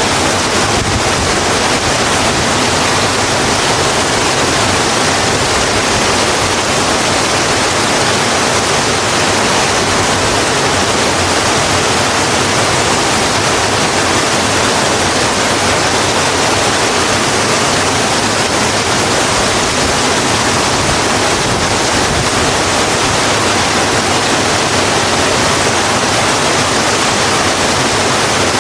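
Steady, heavy rain falling, an even hiss with no breaks or distinct drops.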